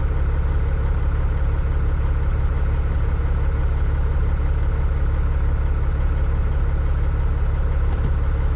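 Cat 3406E inline-six diesel of a Freightliner FLD120 idling steadily, heard from inside the cab.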